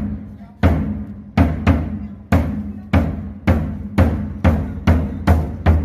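Music: a deep drum struck again and again, the beats gradually quickening, each hit ringing on low into the next.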